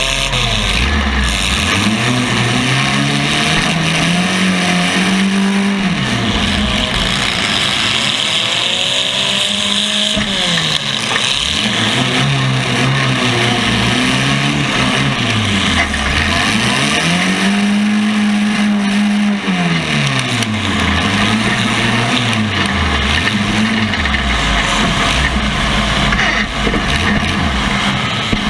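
Compact car engine revving hard and dropping back again and again, with long climbs to high revs, over a steady hiss.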